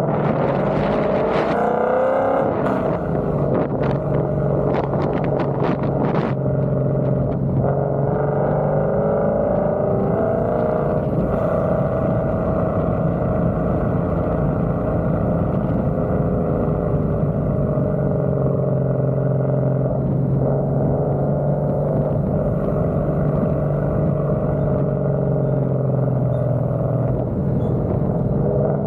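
Ford Coyote 5.0 V8 with Kooks headers running at a fairly steady engine speed, its exhaust note drifting slightly up and down in pitch. Several sharp clicks in the first six seconds.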